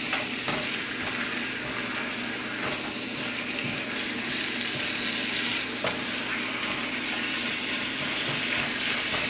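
Ground beef and onions sizzling in a frying pan as they are stirred and tossed with a spatula: a steady frying hiss with the scrape of the spatula through the meat and a few light knocks against the pan.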